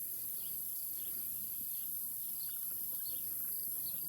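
Steady high-pitched insect chorus, with faint short chirps scattered through it.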